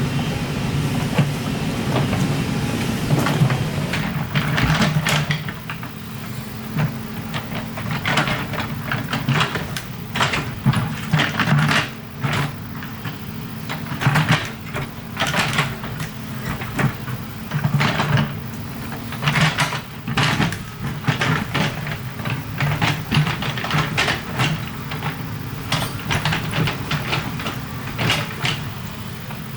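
Excavator's diesel engine running steadily. From about four seconds in, it is joined by frequent clanks and scrapes of the bucket working rock and soil.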